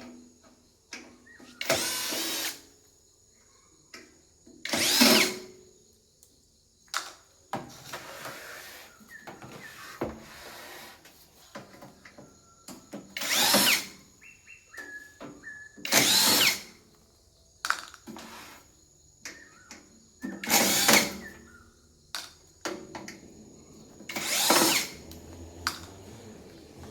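Small power drill run in about six short bursts, each under a second long, with a whine that bends in pitch, separated by clicks and knocks of handling.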